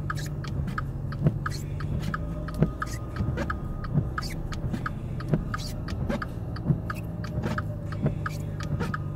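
A car's engine running steadily under load as the car creeps forward through deep snow, with a run of small ticks and a sharper click about every second and a third.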